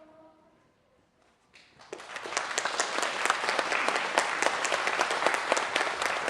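A choir's last held chord fades away; after about a second of quiet, an audience starts applauding, many hands clapping steadily.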